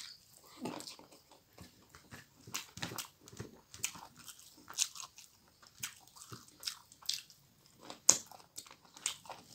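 Close-miked chewing of a mouthful of rice and fried pork, with wet lip smacks and clicks at irregular intervals, one sharper smack about eight seconds in.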